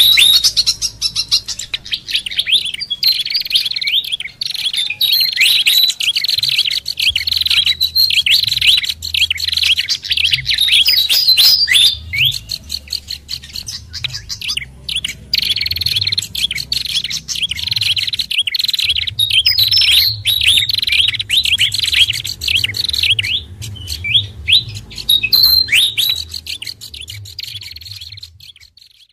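Bird-lure recording of small songbirds (sikatan kipas, pelanduk bukit and prenjak kepala merah calls mixed together): a dense, continuous stream of quick high chirps and twitters, thinning out near the end.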